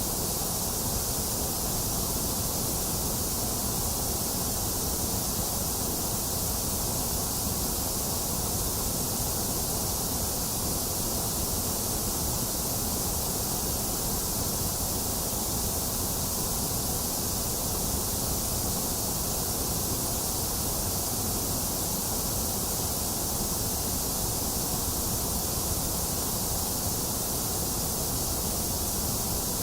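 Steady, unchanging white noise played as a sleep and focus sound, an even hiss with a bright top.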